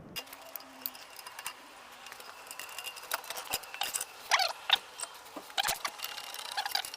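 Metal clinking and rattling from a car jack and tools being handled, with a few short, high squeaks in the middle.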